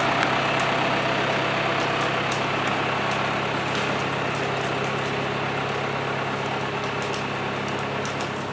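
John Deere 2750 farm tractor's diesel engine running steadily at a constant speed, slowly getting a little quieter.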